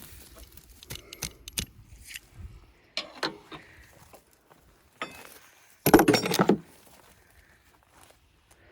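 Scattered metallic clinks and knocks as tools and hay-baler parts are handled during a tension adjustment, with a louder clatter about six seconds in.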